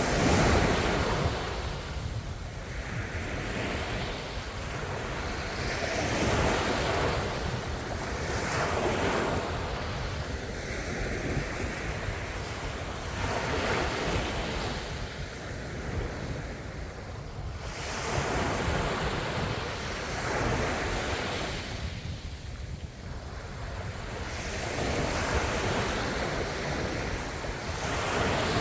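Ocean waves breaking on the shore, one surge after another every three to four seconds, each swelling and washing back, with the loudest break just after the start. Wind buffets the microphone throughout.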